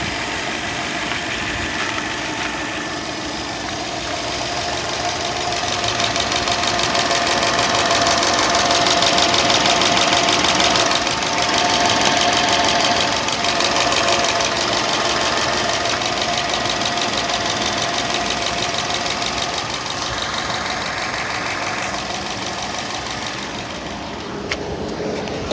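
Subaru Legacy GT's flat-four engine running with a rapid, even clicking over the engine sound, a little louder in the middle. The owner is asking whether this clicking is normal at about 100,000 miles.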